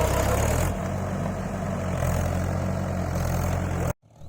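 Tractor engine running steadily with a low, even throb. The sound changes abruptly under a second in and cuts out suddenly just before the end.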